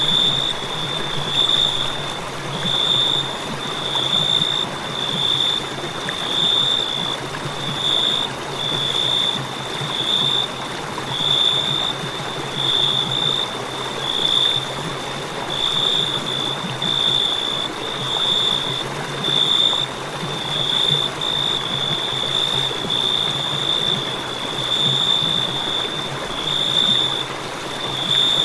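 Cricket chirping steadily, a high, even chirp repeating a little faster than once a second, over a steady rushing background noise.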